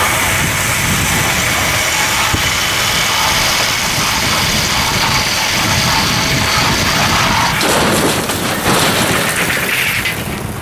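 A motor vehicle's engine running steadily, with a mix of noise and faint steady tones. About eight seconds in, the sound changes abruptly to a louder noise.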